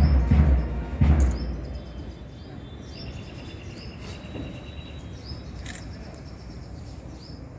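Birds chirping repeatedly in short high calls over steady outdoor background noise, after a few heavy low thumps in the first second or so.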